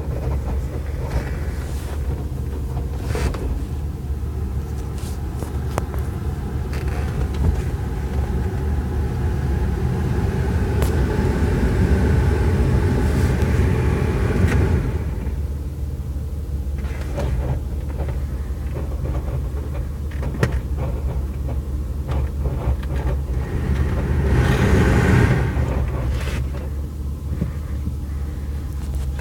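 Alfa Romeo 156 running with a steady low rumble and a strange noise that goes away when the clutch is pressed. The sound swells louder from about 8 to 15 seconds in, drops away suddenly, and swells again around 25 seconds in.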